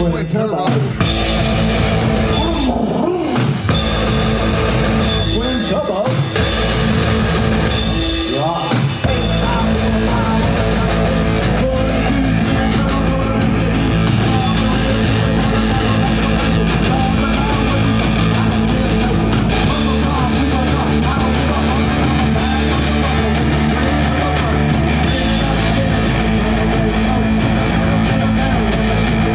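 A rock band playing with guitar and drum kit, steady and loud.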